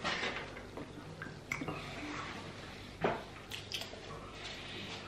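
Faint wet mouth sounds of a person sucking and chewing a chocolate sweet: small scattered clicks and squelches, with one sharper click about three seconds in.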